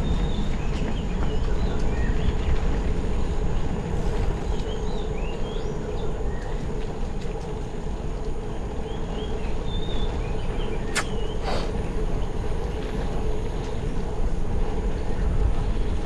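Birds chirping here and there over a steady low rumble with a faint constant hum, typical of a bicycle ride with wind on the microphone. Two sharp clicks come about eleven seconds in.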